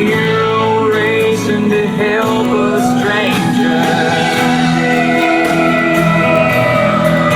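A country song's instrumental passage with guitar. About two and a half seconds in, a fire engine siren wail comes up over it: its pitch rises, sinks slowly, and starts to rise again near the end.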